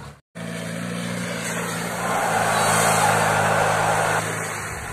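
Old Land Rover off-roader's engine running steadily as it drives past, with a louder rushing noise for about two seconds in the middle. The sound breaks off briefly just after the start.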